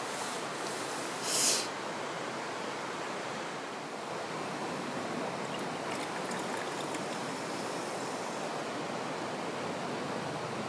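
Steady rushing of a flowing river, with a short hiss about a second and a half in and a few faint ticks later on.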